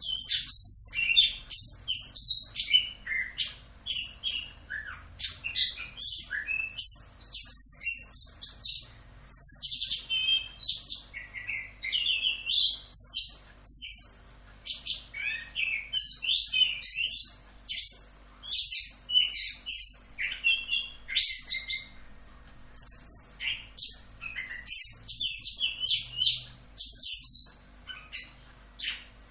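Chestnut-capped thrush (anis kembang) in full continuous song: a rapid, unbroken run of varied high whistles and chirps with barely a pause.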